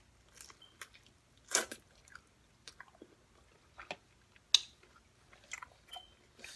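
Close-miked chewing and biting of food: irregular wet mouth clicks and smacks with some crunching, the loudest about one and a half seconds and four and a half seconds in.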